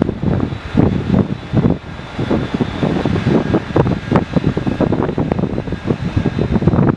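Wind buffeting the microphone in irregular low gusts, with a faint steady high whine underneath.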